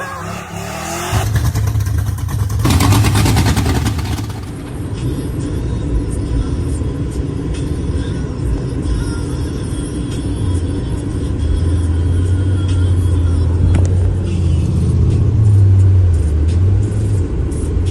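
Swapped Gen 4 5.3 L V8 in a 1996 Impala SS running loud as the car is driven, with a brief noisy rush around three seconds in. The engine note rises and drops again near the end.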